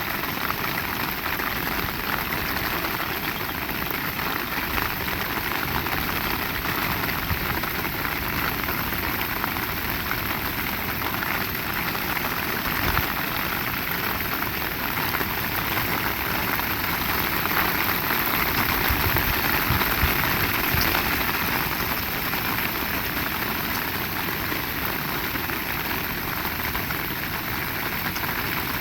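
Heavy rain pouring steadily onto surfaces, growing a little louder for a few seconds past the middle.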